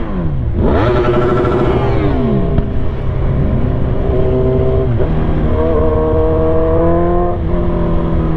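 1000 cc sport bike's engine under a rider accelerating through the gears: revs dip just after the start and climb, with a drop in pitch at gear changes about five and seven and a half seconds in.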